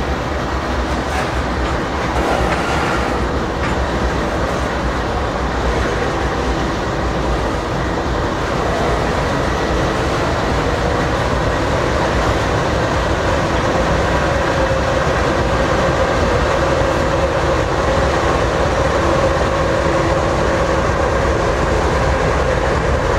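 Loaded grain hopper cars rolling by, their wheels clacking over the rail joints, then the train's rear distributed-power diesel locomotive passing and pulling away, with a steady engine hum that strengthens in the second half.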